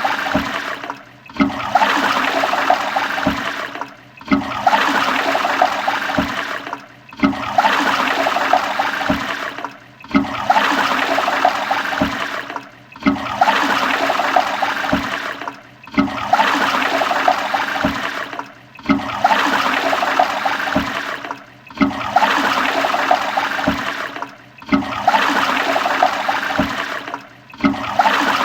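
Toilet flushing, over and over: a rush of swirling water that breaks off briefly and starts again about every three seconds.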